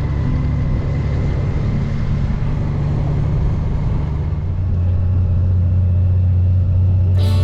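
Honda Gold Wing GL1800's flat-six engine running under way, mixed with wind rumble. A steadier, deeper hum settles in about two-thirds of the way through.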